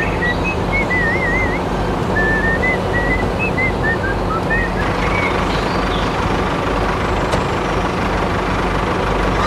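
Steady machine noise, like a running motor or engine, with a series of short, high whistled notes over the first half, one of them a warble.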